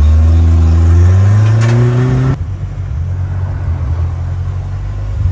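Nissan 240SX drift car's engine revving up under acceleration, its note climbing for about two seconds, then dropping suddenly about two and a half seconds in and running on lower and steady.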